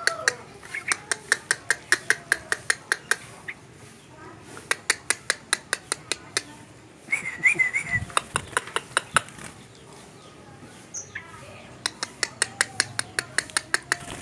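Yellow-vented bulbul calling in runs of sharp clicking notes at about five a second, with pauses between runs and a brief warbling whistle about seven seconds in.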